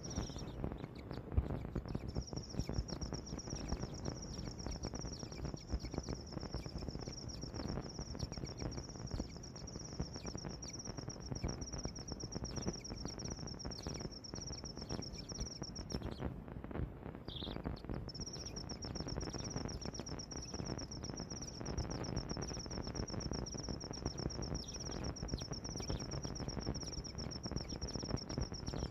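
A high, steady insect trill in two long stretches with a short break near the middle, over a low, rough background noise.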